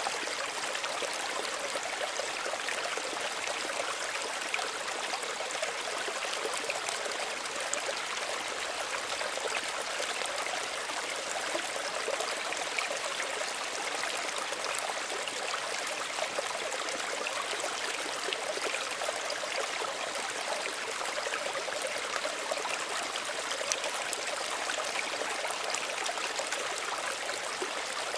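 Small stream running steadily over stones, a continuous gentle rush with fine trickling and bubbling.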